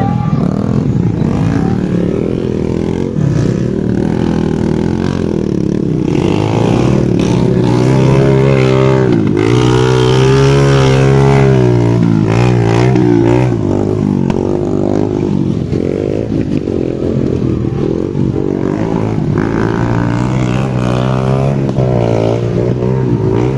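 Motocross dirt bike engines revving up and down as the bikes race, one growing loudest about halfway through as it passes close.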